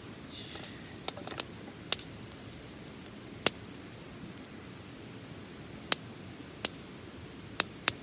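Small wood fire crackling: a steady hiss broken by about eight sharp pops at irregular intervals.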